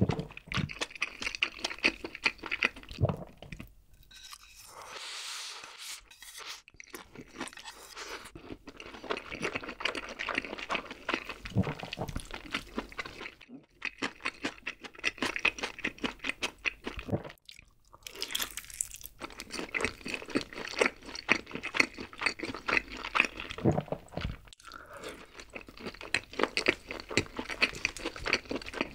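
Close-miked eating sounds: crispy fried chicken crunching and being chewed in rapid crunches, with a few brief pauses.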